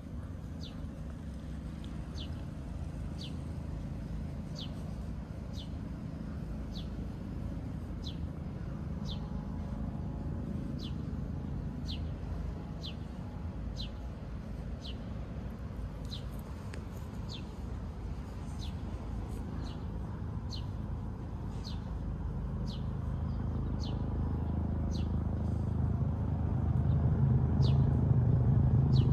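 A bird repeating a short, high, falling chirp about once a second, over a low rumble that grows louder in the last few seconds.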